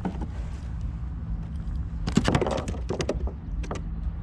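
Knocks, clicks and clattering from handling a hooked eel and line on a kayak while shaking the eel off. The clattering is bunched about two to three seconds in, over a steady low rumble.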